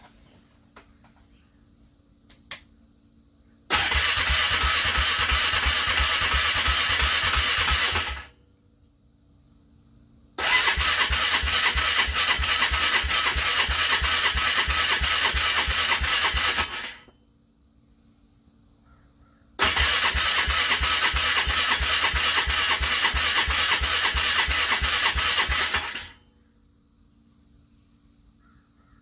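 Starter motor cranking a cold engine in three long attempts, each a steady, rhythmic churn of several seconds that stops abruptly without the engine catching: a hard cold start after a frosty night.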